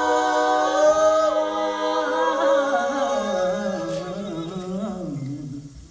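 Unaccompanied voices holding a long sung chord in harmony, with a lower voice moving under the held upper notes and the sound fading away near the end.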